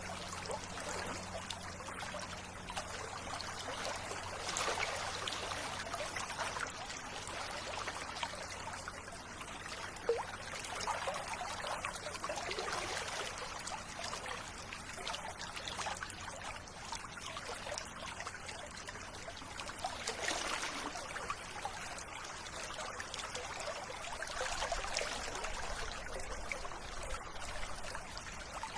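River water running and trickling steadily, swelling a little louder every several seconds.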